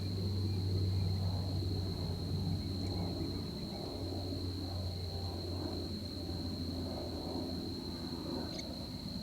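Continuous high-pitched insect drone over a steady low hum.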